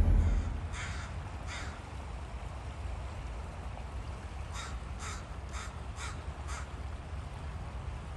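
A bird giving harsh, crow-like caws: two about a second in, then a quicker run of about six around the middle. Underneath is a steady rush of flowing river water.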